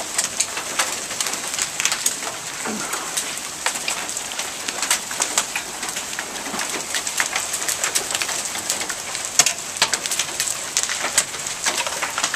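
Steady rain falling, with frequent sharp ticks of drops hitting hard surfaces.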